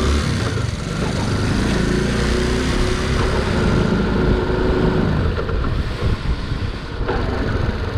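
Honda C90 step-through, fitted with a Lifan 110cc engine, running on the road with a steady engine note for about five seconds, after which it turns rougher and more uneven.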